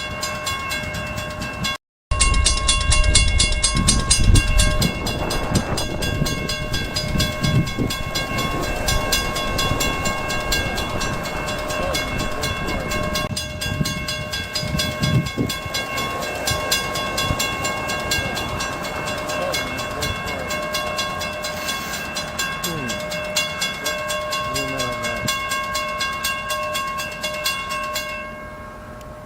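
Level-crossing signal bell ringing rapidly and steadily while a freight train rolls past with a rumble of wheels on rail. The bell stops near the end.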